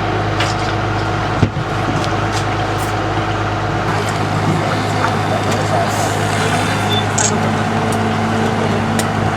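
Canal tour boat's engine running at a steady drone, with a short knock about a second and a half in.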